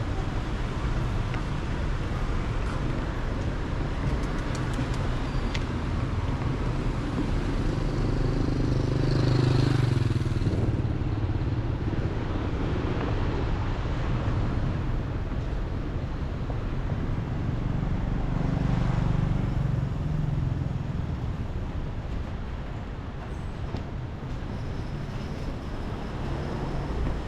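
Street traffic noise with vehicles going by. Two pass louder, one about a third of the way in and one about two-thirds of the way in.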